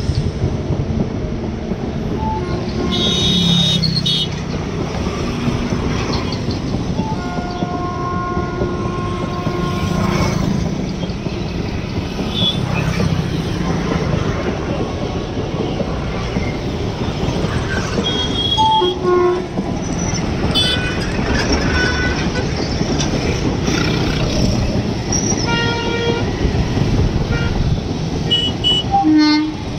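Indian Railways passenger train of coaches rolling past on the tracks close by: a steady rumble of wheels on rail. A train horn sounds for about three seconds a quarter of the way in, and short high wheel squeals break in here and there.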